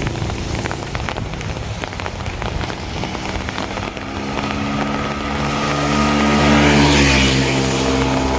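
Rain falling on hard surfaces with a motor vehicle driving past: its engine hum grows from about three seconds in, is loudest near the end, then begins to fade.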